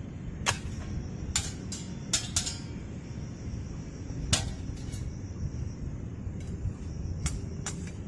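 Scattered sharp clicks and light clinks at irregular intervals, about nine in all, the loudest a little after four seconds in, over a steady low background rumble.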